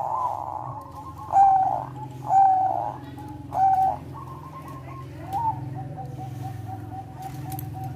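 Zebra dove of the Thai 'perkutut bangkok' strain singing: three loud held coos about a second apart, then a rising note and a quick run of short staccato coos, about four or five a second.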